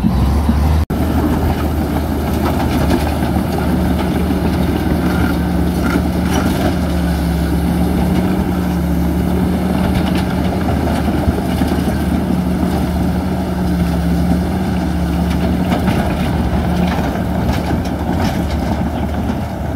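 Heavy diesel earthmoving machinery engine running steadily, a deep, even drone with no change in pitch. There is a brief break about a second in.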